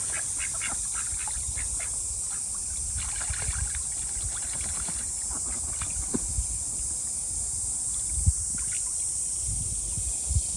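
Ducks splashing and paddling in a small pond: light, scattered water splashes over a steady high hiss and a low rumble.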